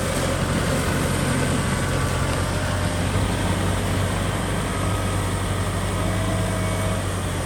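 Kubota ZT155 DI single-cylinder diesel engine of a hand tractor running at a steady speed.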